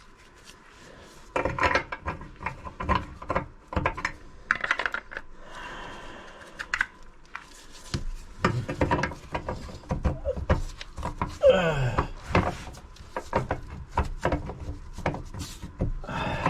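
Hand tools clinking, knocking and scraping on metal as a wrench is fitted to old rusty nuts under a sink, in irregular separate taps and knocks. There is a short falling squeak about two-thirds of the way through.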